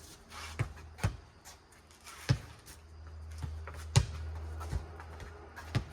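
A four square ball being struck and bouncing back and forth in a rally: about six sharp smacks at uneven intervals, over a low steady hum.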